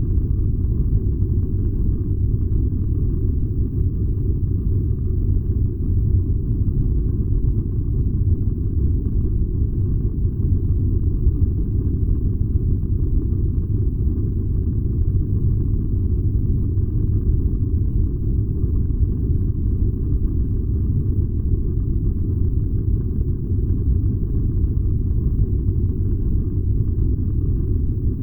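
Furnace running with a steady, deep rumble that does not change.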